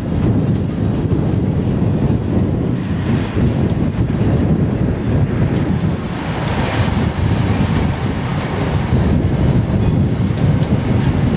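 Alaska Railroad freight train of container and trailer flatcars rolling past, a steady low rumble, with wind buffeting the microphone.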